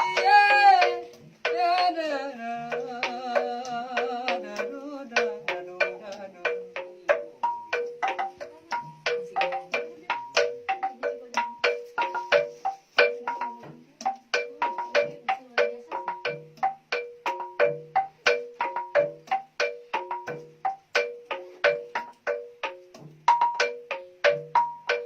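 Gamelan-style music: a melody of held, wavering tones in the first few seconds gives way to a steady, even pattern of struck mallet notes on a few repeating pitches over a low recurring note.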